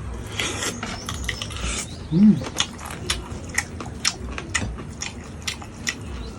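Close-miked eating sounds: chewing with wet mouth clicks and smacks, about two a second, and a short hummed 'mm' a little after two seconds in.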